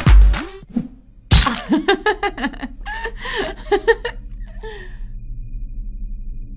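An electronic drum-machine beat stops with a last hit. About a second later, after a sharp onset, a person's voice makes short laughing and gasping sounds over a low steady hum.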